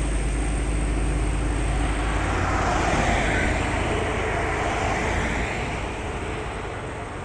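Heavy diesel truck engine labouring uphill, a deep rumble that swells as the truck passes close by in the middle and then fades as it moves away.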